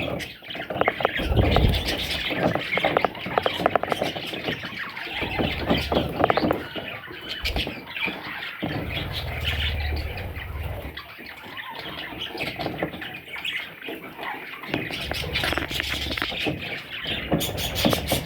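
Budgerigars chattering and squawking in a dense, continuous stream of short chirps, with low rumbling at times.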